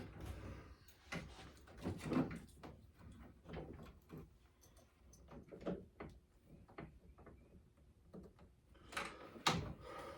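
Irregular knocks, clunks and light rattles, as of tools and parts being handled, with two louder knocks close together near the end.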